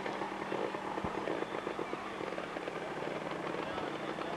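Trials sidecar outfit's engine running at low revs as it rides across grass, its exhaust a rapid, continuous crackling patter.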